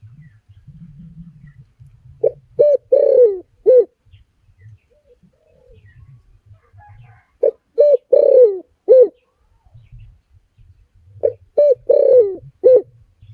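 Spotted dove cooing: three phrases a few seconds apart, each two short coos, a longer falling coo and a short final coo.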